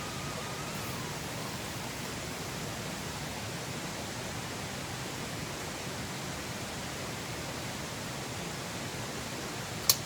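Steady rushing of flowing river water, even and unbroken. A single sharp click comes just before the end.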